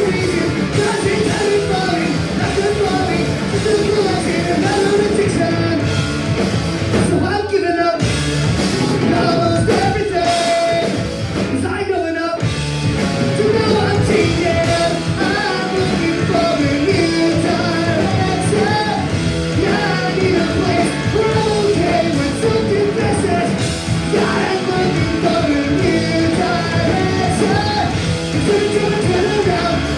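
Punk rock band playing live at full volume, with sung and shouted vocals over the band. The band briefly drops out twice, about eight and twelve seconds in.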